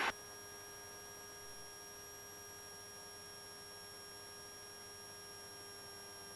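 Faint, steady electrical hum made of several unchanging tones over a light hiss.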